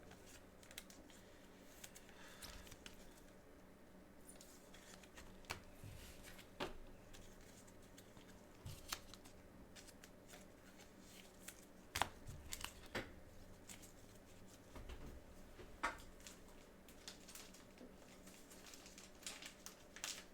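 Faint handling of trading cards and packaging: light rustling with scattered small clicks and taps.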